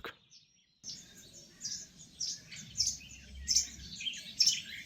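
Songbirds chirping and singing in quick, short overlapping calls, starting about a second in, over a faint low background rumble.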